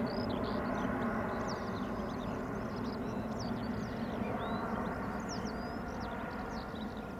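Airbus A320's IAE V2500 turbofan engines running with a steady, many-toned whine, slowly fading. Birds chirp repeatedly over it.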